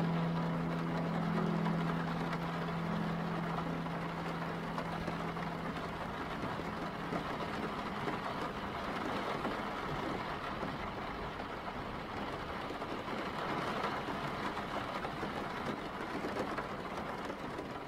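Steady rain falling, an even hiss of rain noise. A low held note from the end of the song lingers muffled under it and dies away in the first several seconds.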